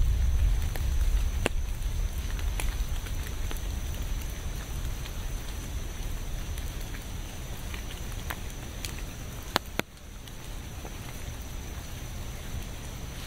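Steady rain, with single drops tapping sharply now and then and two louder taps shortly before ten seconds in. A low rumble underneath is strongest at the start and fades over the first few seconds.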